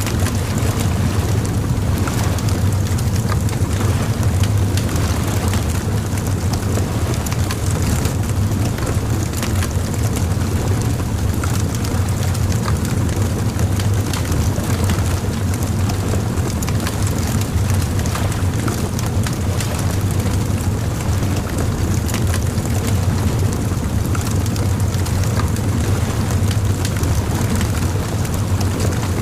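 Bonfire crackling with frequent small irregular pops and snaps over a steady low rumble.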